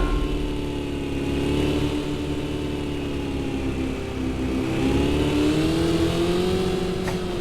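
Car engine running at speed, its pitch drifting gently up and down as it revs, over a low rumble.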